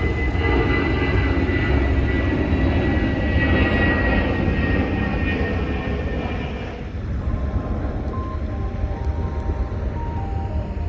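A loud engine passes with a high whine that slowly drops in pitch and fades about seven seconds in. A low rumble remains, with steady tones that change pitch in steps.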